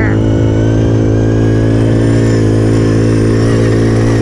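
Pit bike engine running hard at a steady, unchanging pitch, held at constant speed.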